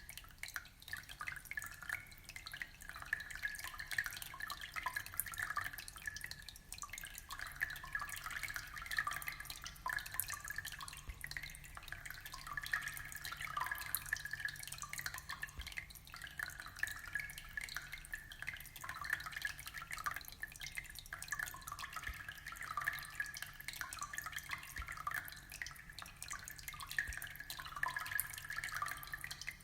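Aquarium water trickling and dripping: a continuous patter of many small drips and splashes.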